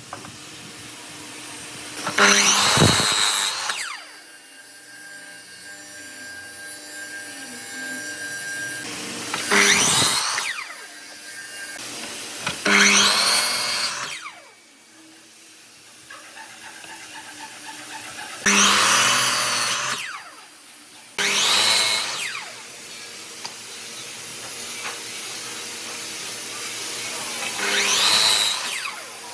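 Electric power tool running on and on, cutting into wood in six loud passes of one to two seconds each, its pitch sweeping at each cut and settling back to a steady hum between them.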